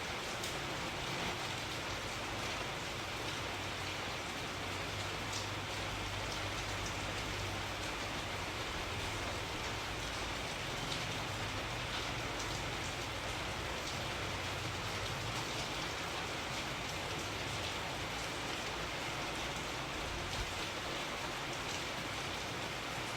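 Steady rain falling, a continuous even hiss with scattered individual drop ticks and a soft low rumble underneath.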